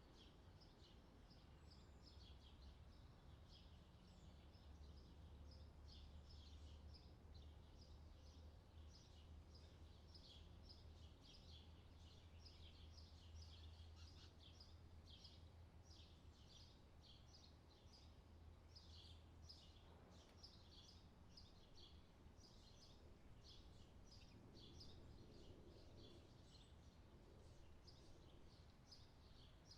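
Faint birdsong: many small songbirds chirping and twittering in quick, continuous succession, over a steady low hum.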